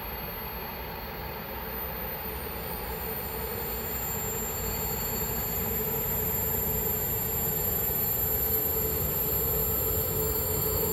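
A train approaching, growing steadily louder: a low rumble with a steady squealing whine made of several pitches held above it.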